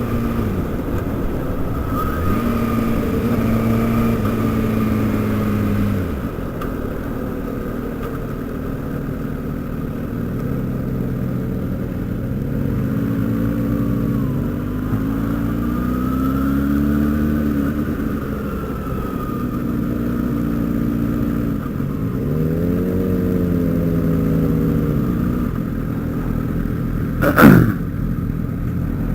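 Sport motorcycle engines running on a group ride, the engine note rising and falling several times through the gears over a steady rumble. Near the end a brief, very loud sound sweeps sharply down in pitch.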